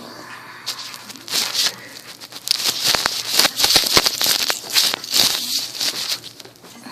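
A plastic wiffle ball toy, stuck with straws and holding a smaller ball inside, rattling and clattering as a cockatiel pecks and pushes at it: a busy run of quick clicks and rattles, thickest in the middle.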